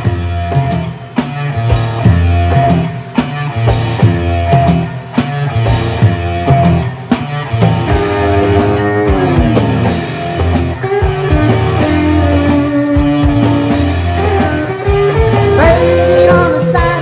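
Late-1970s rock band recording, instrumental: electric guitar over bass and a steady drum beat, with a guitar line that slides down in pitch about halfway through and then holds a long note.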